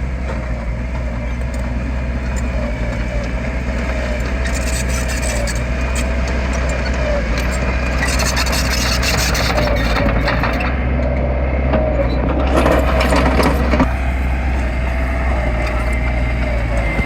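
Heavy diesel engine of a construction machine running steadily with a deep hum, its pitch wavering slightly, with spells of harsher rattling noise about five, nine and thirteen seconds in.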